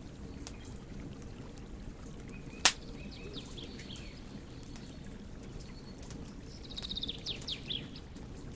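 Wood fire burning with scattered crackles over a low steady rumble, and one sharp loud pop a little under 3 seconds in. A bird chirps in the background, briefly a few seconds in and again in a quick run of notes near the end.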